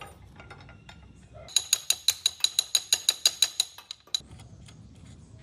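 Ratchet wrench clicking rapidly, about six or seven clicks a second for about two seconds, then one more click.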